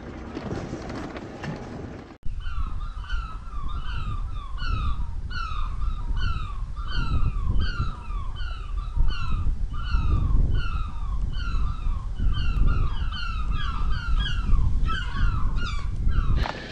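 For the first two seconds, the rumble of a vehicle driving on a dirt track. Then birds calling in a fast, steady series of short falling calls, about three a second, over a low rumble.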